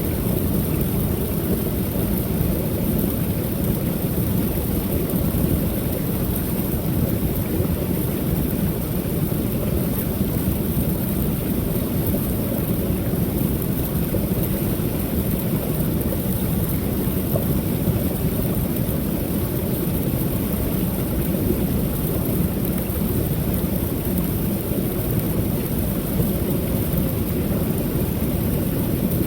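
Waterfall: water pouring steadily over the falls in an unbroken rushing sound, heaviest in the low range, with a thin hiss on top.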